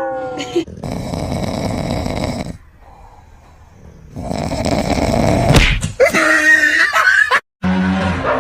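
Snoring: two long rasping breaths about a second and a half apart, followed by a short, higher pitched wavering sound.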